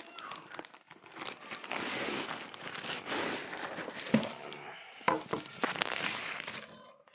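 Packaging crinkling and rustling as a newly delivered humidifier is unwrapped, with a few sharp knocks partway through.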